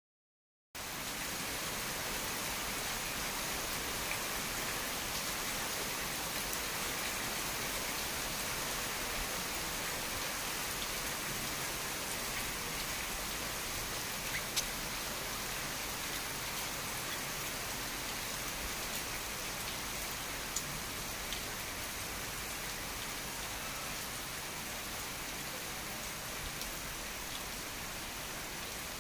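Heavy rain falling steadily, an even hiss with the odd sharp drop or tap, starting just under a second in.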